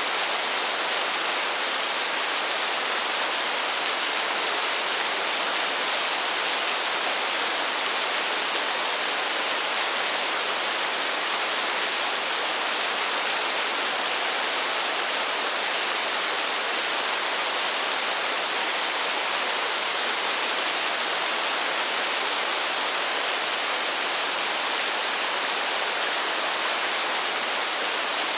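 Steady, dense rainfall: an even, unbroken hiss with no single drops standing out.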